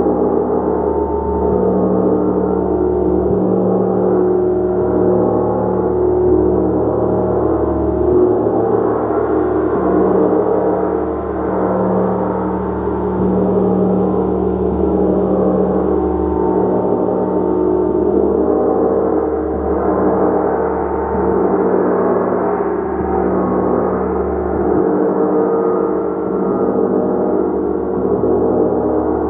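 Gong played in a continuous wash: many overlapping ringing tones held at a steady loudness, wavering and swelling slowly.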